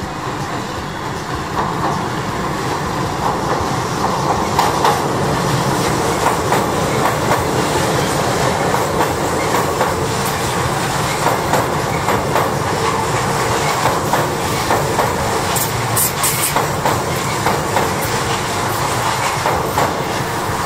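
Tobu 500 series Revaty electric limited express, two three-car sets coupled, passing close by. It gets louder over the first couple of seconds, then holds a steady rumble with a clickety-clack of wheels over rail joints.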